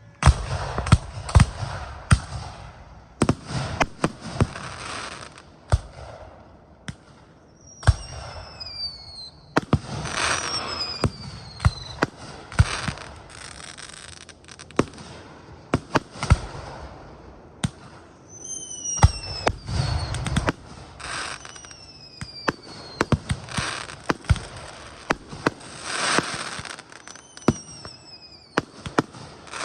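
Fireworks display: a rapid, uneven series of loud bangs with crackling between them, and several whistles falling in pitch.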